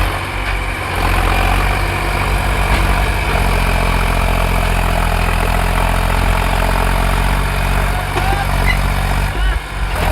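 Tractor diesel engine running steadily, growing louder about a second in and holding there.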